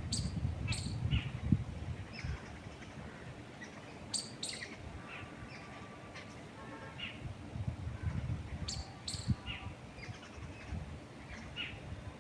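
Wild birds chirping in short, scattered high calls over the low rumble of wind, which swells in gusts near the start and again past the middle.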